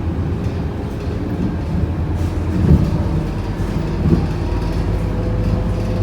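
Interior sound of a moving Scania K230UB bus: its five-cylinder diesel engine running steadily under road rumble, with two short knocks from the bodywork, one about three seconds in and another a second and a half later.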